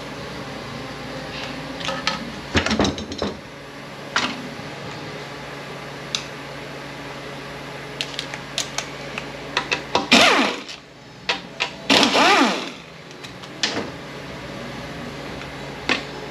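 Metal clicks and knocks of hand tools and transmission parts being handled on the bench, with two short louder, rougher bursts about ten and twelve seconds in, over a steady low hum.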